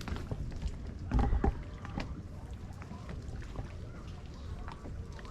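Pelican Trailblazer 100 plastic kayak on the water: small knocks and water sounds against the hull, with a louder double knock about a second in, over a low rumble.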